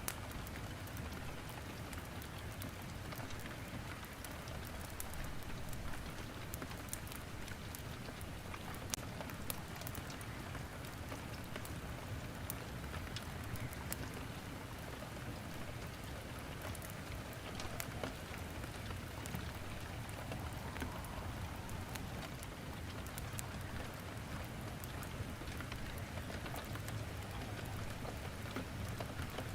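Steady rain with scattered sharp crackles of firewood burning in a fireplace, over a low steady rumble.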